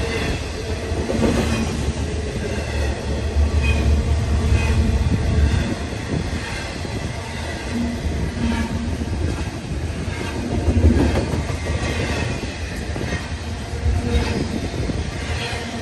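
Freight train's intermodal cars rolling past: a steady low rumble of wheels on rail, with scattered clunks.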